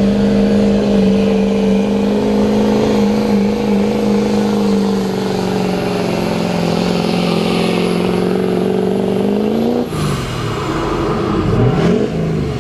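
Modified diesel Ford F-350 pickup's engine pulling a sled under full throttle. It holds a steady high pitch that sags a little, then climbs just before it is let off about ten seconds in. After that the revs drop and waver, the sign of the pull ending.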